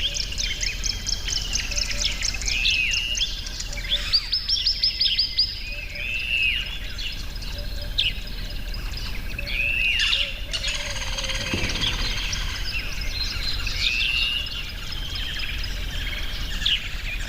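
Birds singing outdoors: a short arching call repeats about every two seconds, with bursts of rapid trilling near the start and again about four seconds in.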